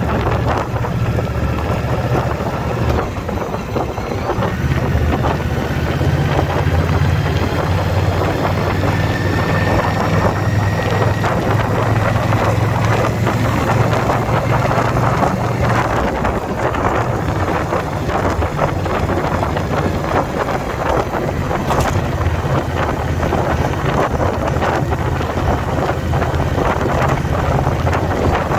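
2021 Indian Scout Bobber Twenty's liquid-cooled V-twin running steadily at cruising speed, with wind buffeting the microphone.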